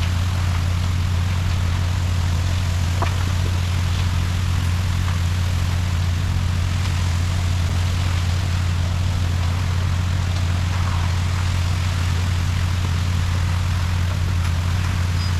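Concrete truck's diesel engine running at a steady speed, a constant low drone with a few faint clicks over it.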